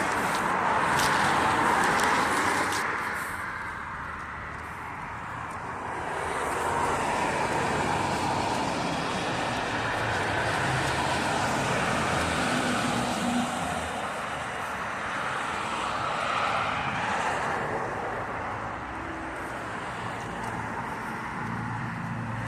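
Road traffic: passing cars whose tyre and engine noise swells and fades several times, loudest near the start, with a lull about four seconds in.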